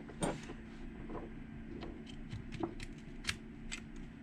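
Scattered light clicks and taps of small metal lock parts being handled while a car hatch lock cylinder is taken apart for rekeying, the sharpest about three seconds in.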